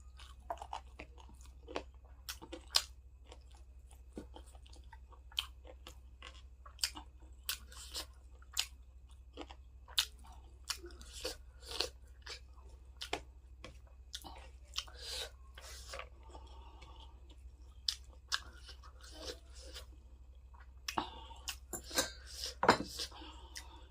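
Close-up chewing and biting of food, with irregular crisp crunches and wet mouth clicks every half second or so, growing denser and louder about three quarters of the way through.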